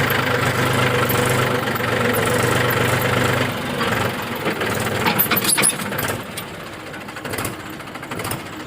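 Tractor engine running steadily; its low note drops away about three and a half seconds in, followed by a few sharp knocks.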